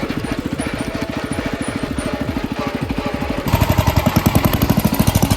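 Small engine of a homemade tractor running under way in third gear, with a rapid, even firing beat; it gets louder about three and a half seconds in.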